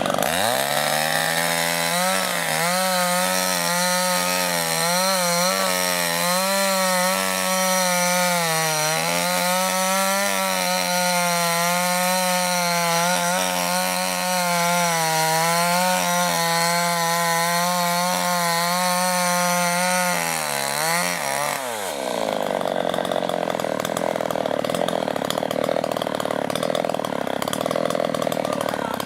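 Two-stroke chainsaw with a SVENA engine running at high revs as it cuts into khoi wood, its pitch wavering up and down under load. About 21 seconds in the revs drop sharply and the saw runs on at a lower, rougher note.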